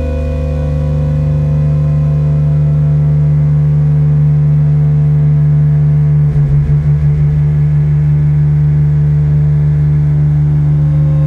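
Lyra-8 synthesizer drone run through amp and reverb effects: thick, steady low tones with a stack of fainter higher tones above. About six seconds in, the low end wobbles in a quick fluttering pulse for about a second, then settles back into the steady drone.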